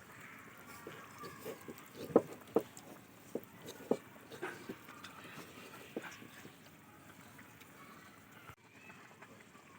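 Spatula stirring chilli chicken gravy in a pan as it thickens with cornflour slurry, with about half a dozen irregular knocks against the pan, most of them in the first six seconds.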